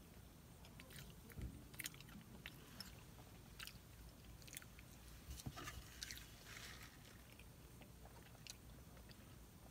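Faint close mouth sounds of chewing a crispy chicken biscuit: scattered soft clicks and smacks, with a short sip through a straw near the end.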